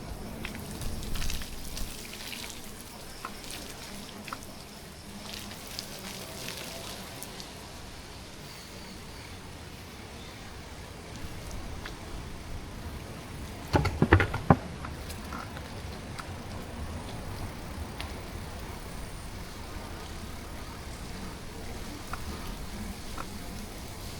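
Steady wind and road noise from a bicycle ride in light rain, picked up by a waterproof action camera, with a brief cluster of loud knocks a little past halfway.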